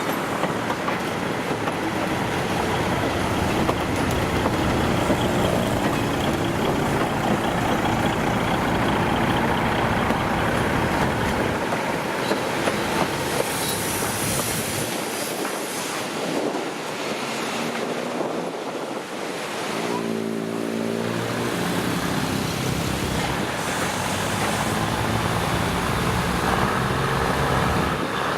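1967 RHN Hitachi diesel railcar running on the move, a steady mechanical rumble and rattle, with a brief hiss about fourteen seconds in and the engine note shifting in pitch about twenty seconds in.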